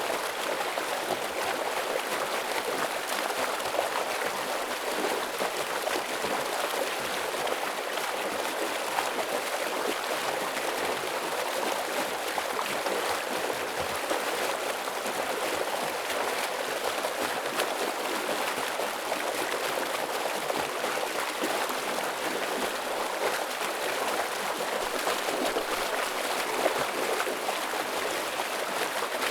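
Heavy stream water rushing and splashing over rocks in a steady, unbroken flow.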